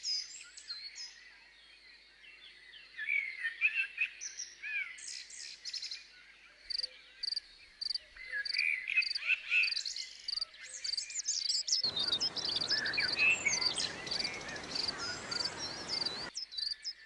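Birds singing and chirping, with regular insect chirps about twice a second. Near the end a steady rushing noise comes in for about four seconds and cuts off suddenly.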